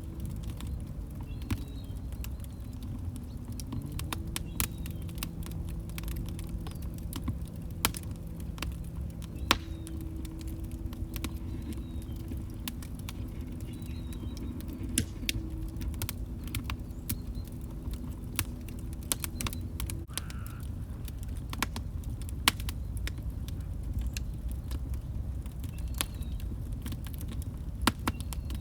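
Log fire burning with a steady low rumble and irregular sharp crackles and pops, a few louder than the rest. A faint low humming tone sits underneath and stops abruptly about twenty seconds in.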